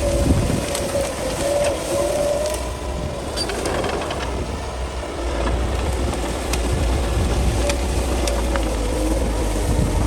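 Crawler bulldozer's diesel engine running steadily under load, a deep rumble with a wavering whine that comes and goes, and scattered sharp clicks.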